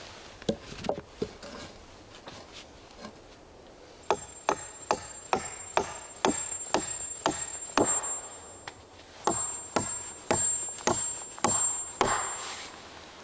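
Repeated sharp strikes of a tool on wood, about two a second, starting about four seconds in with a brief pause midway; a few lighter knocks come before.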